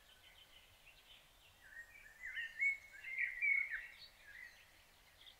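A songbird singing one phrase of quick, chirping, warbling notes lasting about two seconds near the middle, over faint outdoor background noise.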